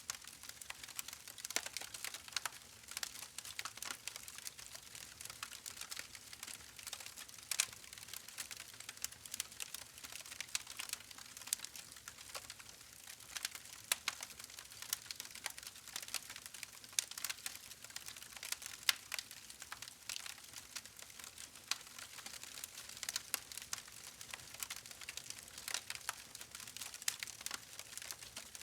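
Wood fire crackling: a dense, irregular run of sharp pops and snaps with no let-up.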